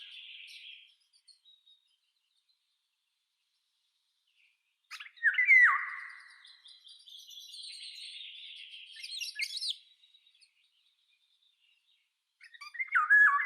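A songbird singing in separate phrases. Each phrase opens with a few loud, clear whistled notes that slide in pitch, then trails into a softer, higher twittering run. One full phrase comes about five seconds in and lasts about five seconds. Another begins near the end.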